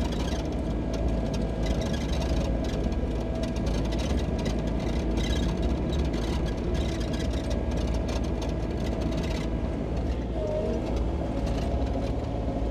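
Sany SY35U mini excavator's diesel engine running steadily, with light intermittent clatter over the even low hum.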